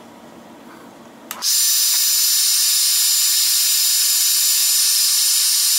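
A handheld hot-air blower switches on about one and a half seconds in and runs steadily, a loud airy rush with a thin high whine. It is softening the adhesive under an iPad 2's cracked glass.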